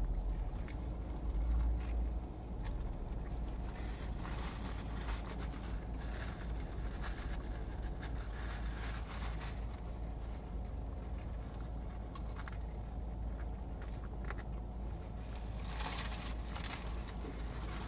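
Chewing a bacon cheeseburger, with the crackle of its paper wrapper now and then, loudest near the end, over a steady low rumble in the car cabin.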